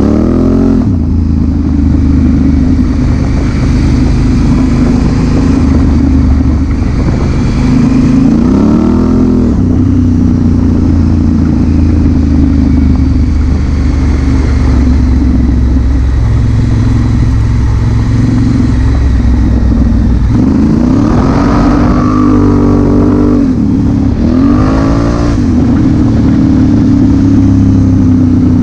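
2016 Honda Africa Twin CRF1000L's parallel-twin engine running under way, loud and steady. It revs up, rising in pitch, about a third of the way in and twice near the end.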